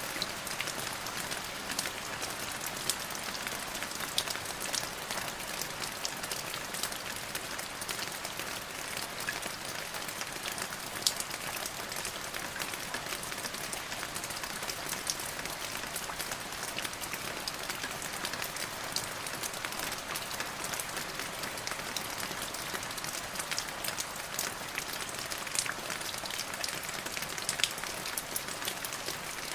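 Steady rainfall, many raindrops pattering on a hard surface with scattered sharper drip ticks.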